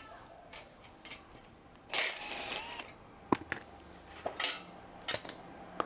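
Metallic clicks and clanks from hand work on a bicycle's rear wheel and axle as it is being taken off. There is a scraping rattle about two seconds in, then several sharp single clicks.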